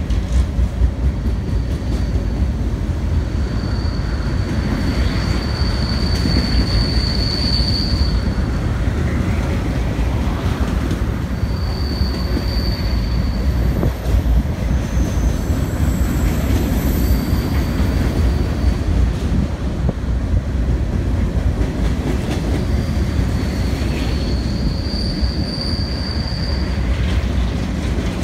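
Empty steel gondola cars of a Norfolk Southern freight train rolling past: a steady low rumble of wheels on rail, with a high-pitched wheel squeal coming and going several times.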